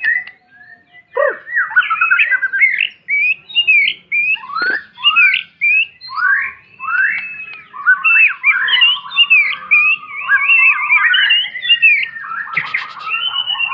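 White-rumped shama singing a loud, rapid, varied song of whistled notes and chirps, with short breaks in the first half and nearly continuous from about halfway on.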